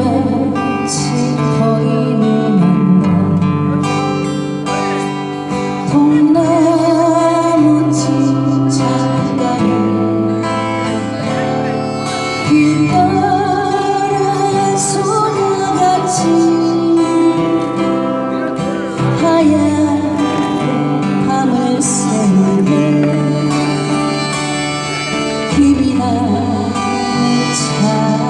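Live acoustic folk music led by guitar, with a melody line that wavers in pitch over sustained bass notes.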